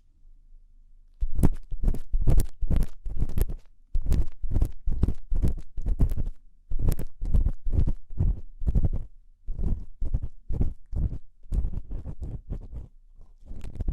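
Ear-cleaning tool scraping inside the ear in rhythmic strokes, about two to three a second, starting about a second in with a couple of short breaks.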